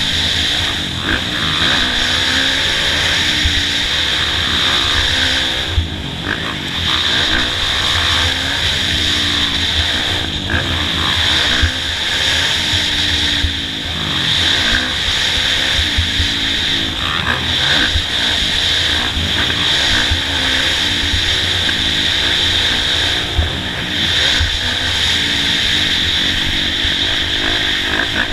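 Kawasaki KX450F four-stroke single-cylinder motocross bike engine running under hard riding, its pitch climbing and dropping over and over with throttle and gear changes, over a steady high hiss.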